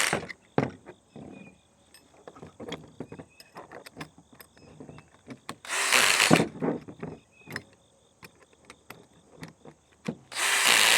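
Power drill with a 1/2-inch socket running in two roughly one-second bursts, about six seconds in and near the end, as it tightens bolts and lock nuts with its clutch set low. Between the bursts, small clicks and knocks of parts and tools being handled.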